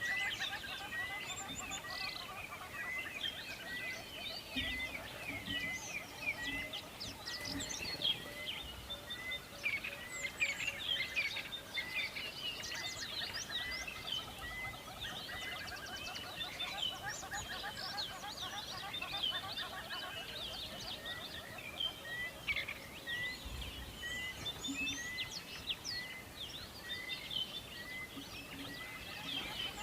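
A chorus of many birds chirping and calling together, with one short note repeated at a steady pace, a little more than once a second.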